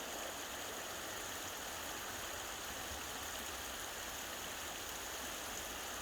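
A brook's running water, a steady rushing and babbling flow.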